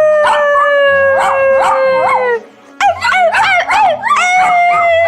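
A dog howling: two long held howls that sag slightly in pitch, with short rising-and-falling yips over and between them.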